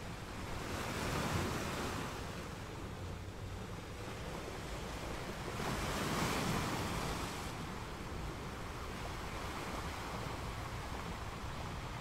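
A steady rush of moving water that swells twice, about five seconds apart, like waves washing in.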